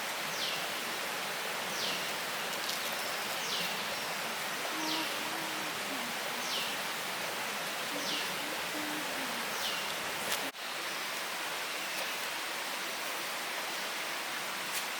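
Forest ambience: a steady rushing hiss, with a bird's short, high falling call repeated about every second and a half. The calls stop after a brief dip in the sound about ten seconds in.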